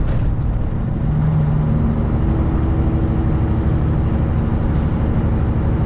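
Semi truck's diesel engine and road noise heard from inside the cab while driving, a steady low drone.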